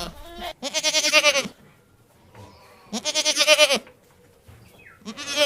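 Goat bleating: a series of wavering bleats, each under a second long, coming roughly every two seconds.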